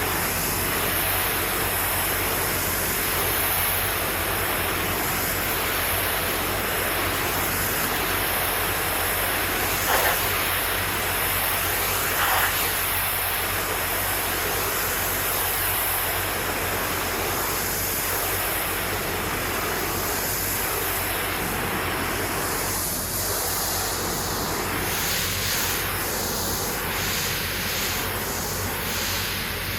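Pressure washer spraying precast concrete: a steady hiss of the water jet over the steady low hum of the machine's engine, with two brief louder spurts about ten and twelve seconds in.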